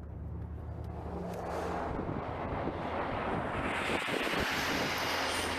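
Wind rushing across the microphone, building over the first couple of seconds and staying strong, over a steady low hum.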